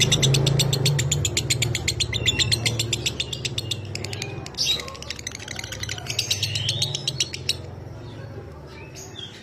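Lovebird ngekek: a long, fast chattering run of sharp dry chirps, many a second. It breaks off about four seconds in, then starts again and runs to near the end.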